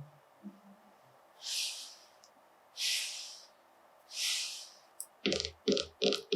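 Three short hissing puffs about a second and a half apart, followed near the end by a quick run of light taps.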